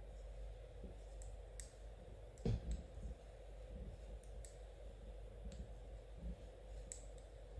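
Knitting needles clicking against each other as stitches are worked: sharp, irregular clicks about a second apart, with one heavier knock about two and a half seconds in.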